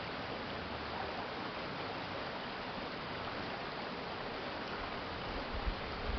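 Urban stream water flowing with a steady, even rush. A low rumble with a few bumps comes in near the end.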